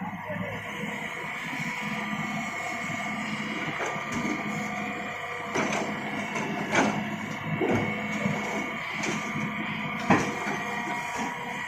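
Excavator engine and hydraulics running steadily with a constant whine, broken by several sharp knocks, the loudest about two thirds of the way in.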